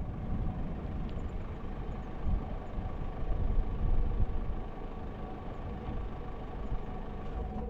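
Mercedes van running: a steady low engine and road rumble with a few faint steady hum tones, cutting off abruptly at the end.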